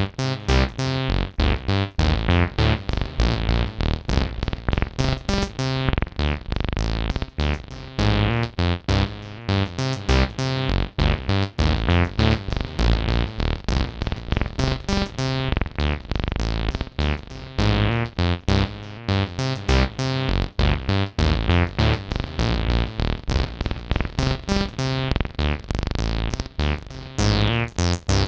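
Acid synth line from the AcidMachine app's TB-303-style bass synth: a fast sequenced run of short notes with a deep bass pulse, the resonant filter making each note squelch and fall away.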